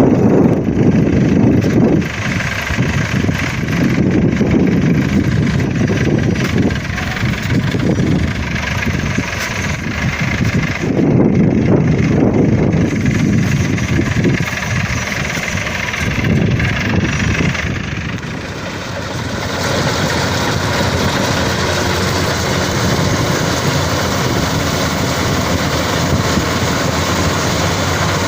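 Combine harvester's engine running under varying load, its low rumble swelling and easing every couple of seconds. About two-thirds of the way in, it settles into a steadier, brighter drone.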